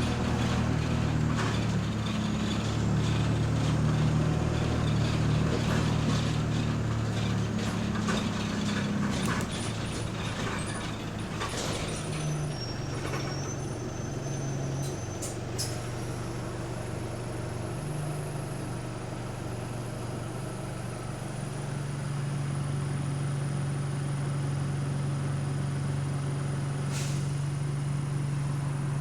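Bus engine heard from inside the passenger saloon, with frequent rattles and knocks over the first ten seconds or so. The engine note then shifts and settles into a steady hum, with a short hiss about 27 seconds in.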